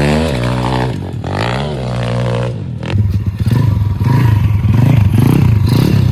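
Pit bike engine revving, its pitch dropping and climbing over the first couple of seconds, then running at low revs with an uneven pulsing chug.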